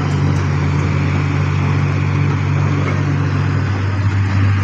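A heavy vehicle engine running steadily and loud, its low note shifting lower about three and a half seconds in.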